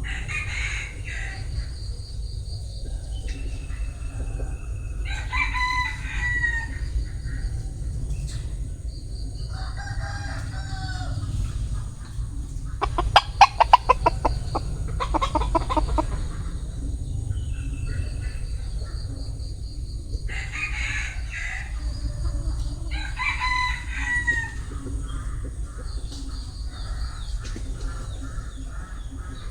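Bantam rooster (gà tre) crowing repeatedly, about half a dozen crows spread over the span. About halfway through comes a loud, rapid stuttering call, the loudest sound, over a steady low rumble.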